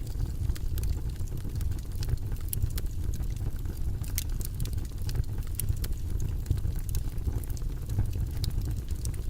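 Steady, low, rumbling white-noise track played for studying, with faint irregular clicks scattered over it.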